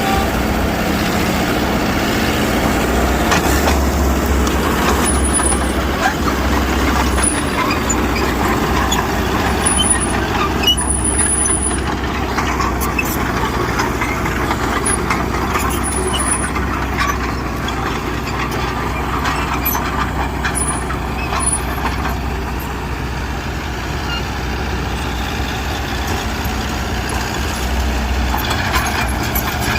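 Heavy diesel earthmoving machinery running steadily under work, with a low engine drone, metallic clatter and a few brief high squeaks in the middle.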